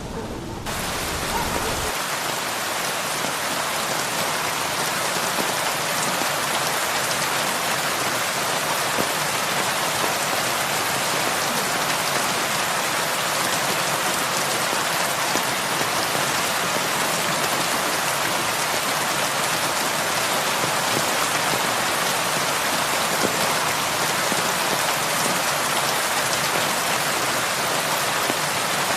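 Heavy rain on a roof: a dense, steady hiss that sets in sharply just after the start. A low rumble of thunder dies away about two seconds in.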